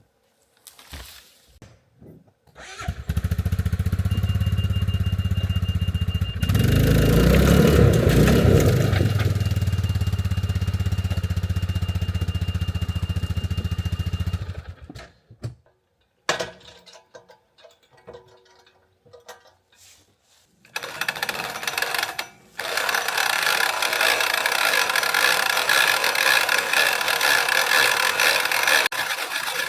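An engine starts abruptly and runs steadily for about twelve seconds, rising briefly a few seconds in, then cuts off. Later a steady, higher-pitched noise runs for about eight seconds.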